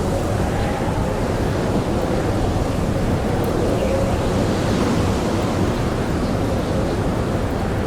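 Blizzard wind blowing steadily, a dense rushing roar with a faint howling pitch that drifts slightly up and down.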